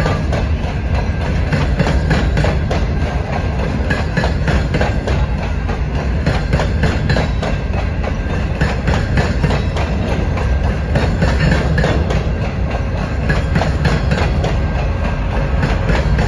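Open hopper cars of a freight train rolling past close by: a steady, loud rumble of steel wheels on rail, with frequent clicks and clacks from the wheels and couplings throughout.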